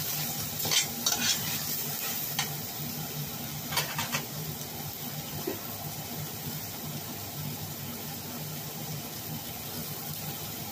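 Chicken pieces sizzling as they fry in a metal pot on a gas burner, with sharp clicks and scrapes of a utensil stirring against the pot during the first four seconds, then steady sizzling. A low steady hum runs underneath.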